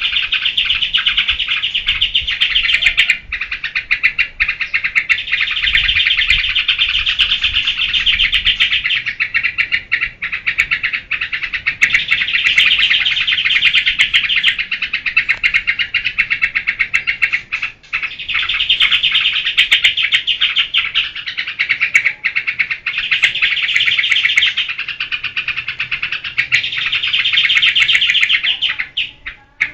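Yellow-vented bulbul (trucukan) singing 'ngebren': a loud, fast, continuous chatter in runs several seconds long, separated by short breaks.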